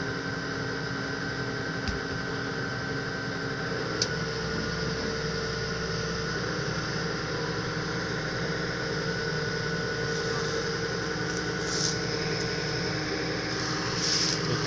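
Heavy lifting machine's engine running steadily, with a steady high whine over it while it lifts a car engine out of the body. There is a short click about two seconds in and a sharp tick about four seconds in.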